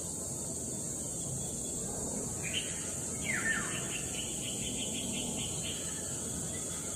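Golden-bellied gerygone calling: a short high note, then a whistle gliding steeply down, followed by a fast run of thin high notes at about five a second. A steady high-pitched insect drone runs underneath.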